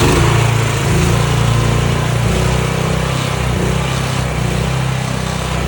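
Mud boat's motor running hard at high throttle, a loud steady engine drone, as the boat tries to push through thick floating mud it is stuck in.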